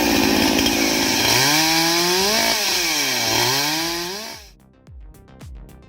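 Chainsaw cutting firewood logs on a sawing trestle, its engine pitch dipping and rising as the chain bites. It cuts off suddenly about four and a half seconds in, and a background music beat follows.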